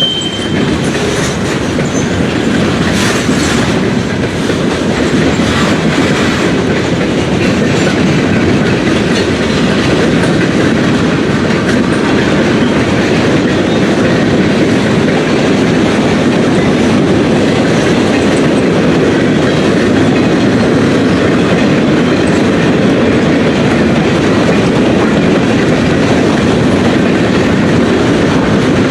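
A train rolling past, with the steady, continuous noise of its wheels running on the rails.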